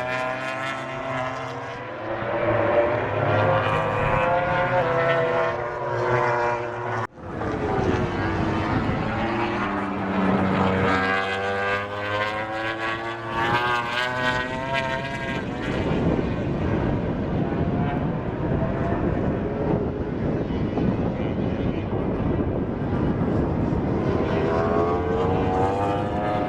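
MotoGP four-stroke racing motorcycles passing at speed, their engine notes rising and falling as they go by and change gear. The sound breaks off for an instant about seven seconds in, and in the second half several bikes are heard together.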